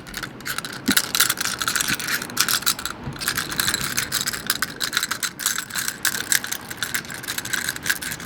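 Seashells rattling and clicking against one another in a rapid, uneven stream of small hard clicks.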